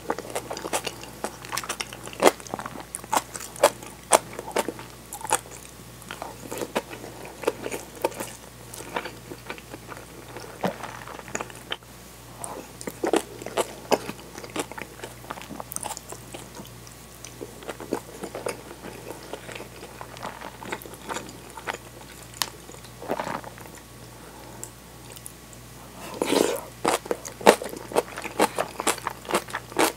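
Close-miked eating: chewing kimchi, soft tofu and rice, with crisp crunches and wet, sticky mouth clicks. A denser run of clicks and scrapes comes near the end as the wooden spoon scoops from the plate.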